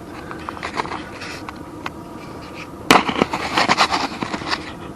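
Camera tripod being handled and adjusted: scattered clicks, then a sharp click about three seconds in followed by a quick run of clicks and rattles.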